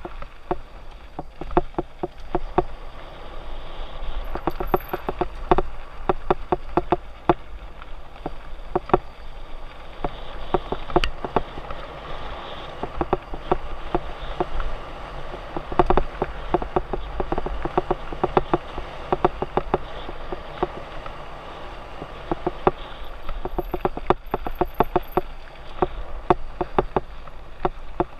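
Mountain bike rolling downhill on a dirt trail: a steady run of tyre noise with dense, irregular rattling and clattering as the bike goes over rough ground, over a low rumble.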